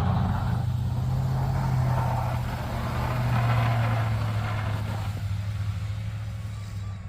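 Plow truck engine running as the truck pulls away and drives: a steady low hum that swells a little midway and eases off toward the end.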